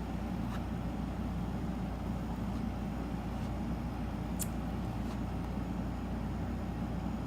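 Steady low background hum, with a few faint light clicks; the sharpest comes about four and a half seconds in.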